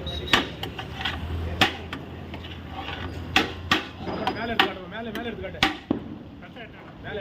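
Heavy kitchen knife chopping on a wooden board: about six sharp, irregularly spaced blows over several seconds.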